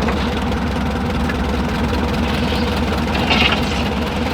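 An engine idling steadily with an even, rapid beat, just after its carburetor has been adjusted.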